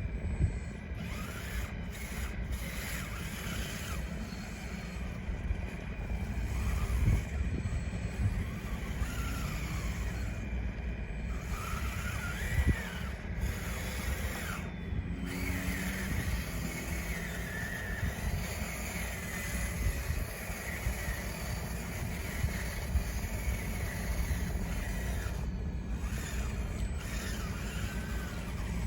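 Radio-controlled bulldozer at work: small electric drive motors whining, the pitch rising and falling as it speeds up and slows, over steady low noise, with a few short knocks.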